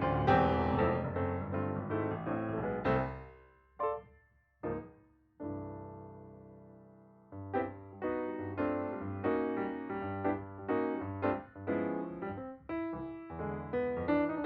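Background piano music: a run of notes, a short pause with one long held note dying away, then steady playing again.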